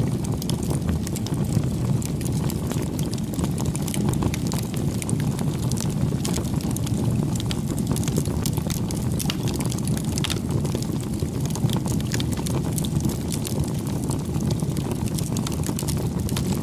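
Campfire burning: a steady low rush of flames with frequent small, sharp crackles and pops from the burning wood.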